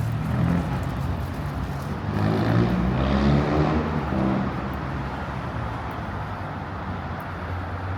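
Street traffic with a steady low rumble. About two seconds in, a motor vehicle's engine passes close by, loudest around three seconds, then fades back into the traffic.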